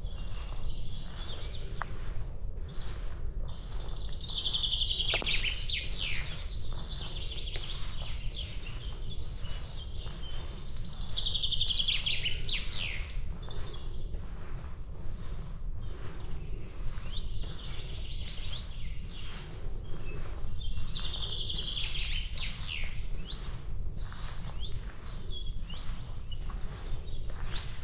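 A songbird singing a bright, repeated song phrase about every six to eight seconds, over regular footsteps on a path and a steady low rumble.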